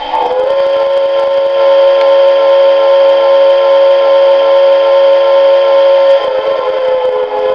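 Whistle of a Lionel 390E standard-gauge tinplate steam locomotive, blown in one long steady blast of about six seconds that wavers as it ends, over the light clicking of the train running on the track.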